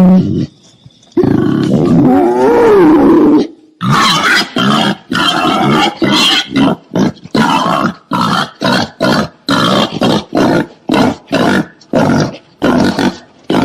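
Wild boar calling: a long wavering call over the first few seconds, then a string of short, rapid grunts, about two a second.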